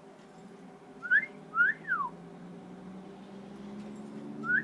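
Cockatiel giving a wolf whistle about a second in: a short rising note followed by a longer note that rises and then falls.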